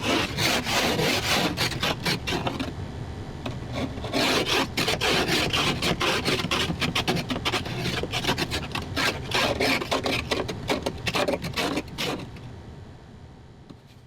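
Rapid crunching and scraping on snow, in quick strokes with a short lull a few seconds in, fading out near the end.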